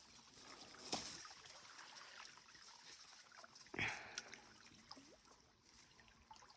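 Faint water splashes and drips around a stand-up paddleboard drifting on the water, with a louder splash a little under four seconds in.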